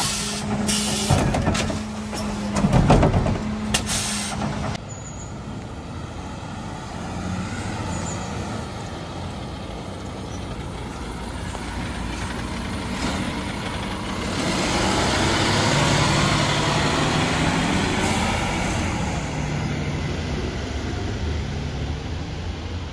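Mercedes Econic refuse truck working: clattering knocks over a steady hum for the first few seconds, then its engine running steadily, growing louder for several seconds in the second half before easing off.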